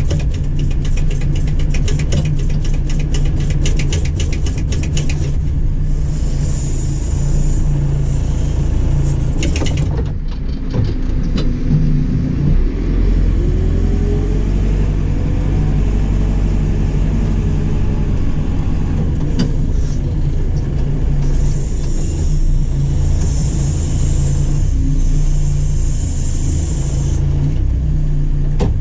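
JCB 4CX backhoe loader's diesel engine running steadily under working load. A fast run of clicks comes in the first few seconds, there are two stretches of high hiss, and the engine pitch rises briefly about halfway through.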